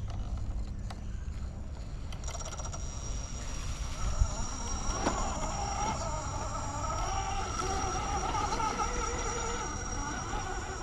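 Electric motor of a radio-controlled rock crawler whining as it crawls, its pitch wavering with throttle, over a low rumble of wind on the microphone. A sharp knock comes about four seconds in.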